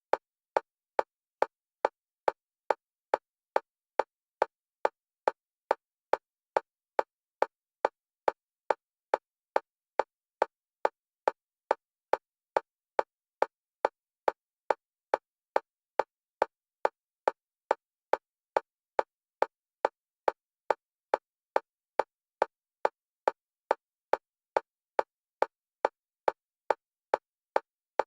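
Synthetic metronome click repeating at an even fast tempo, about two and a half clicks a second, every click the same pitch and level. The clicks alternate between the left and right stereo channels as an EMDR bilateral stimulation track.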